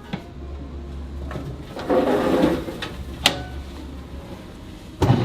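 Kitchen handling sounds: a few sharp knocks and clicks, with a rough sliding scrape about two seconds in, over a low steady hum.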